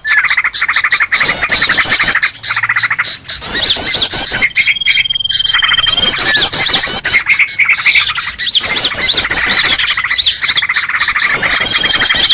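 Cucak ijo (green leafbird) calling in a loud, agitated chatter of fast trills and quick repeated upslurred notes, with a long steady whistle held about four seconds in and again near the end. These are the bird's noisy alarm-and-rivalry calls, used as a lure recording to draw wild cucak ijo to a trap.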